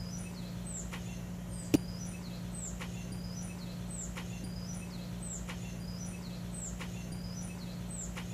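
A bird calling over and over, a short high note slurring downward about once a second, over the steady low hum of an outdoor air-conditioner condenser unit. A single sharp knock a little under two seconds in.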